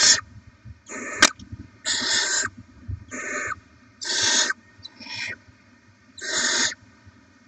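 Barn owl nestlings giving rasping, hissing begging calls, about one a second, some louder than others. There is one sharp click about a second in.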